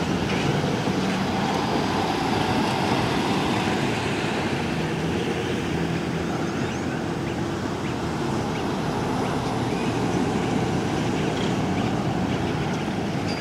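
Fire trucks on the move: engines running under a steady wash of road and tyre noise.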